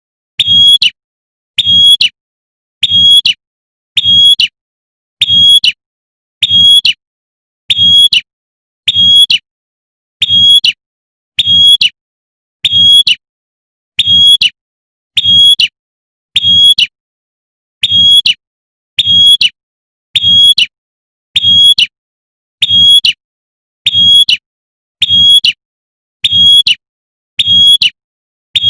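Female prinia (prenjak) giving its sharp, high 'tembakan' call note over and over in an even rhythm, about one note every second and a bit, each note with a low thud beneath it. The repeated call is the female's call to a male.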